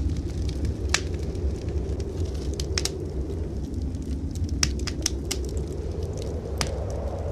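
Wood fire in a fireplace crackling, with about half a dozen sharp pops at irregular moments over a steady low rumble.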